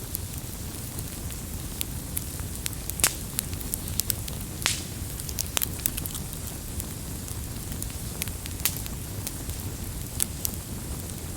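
Wood campfire crackling: irregular sharp pops and snaps over a steady low rumble of burning flames.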